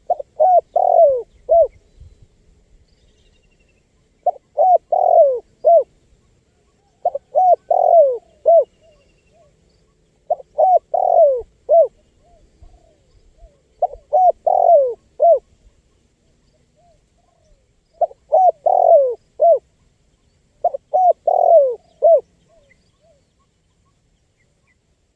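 Spotted dove (tekukur) cooing: about seven phrases of four or five low coos each, repeated every three seconds or so, with a longer pause near the end.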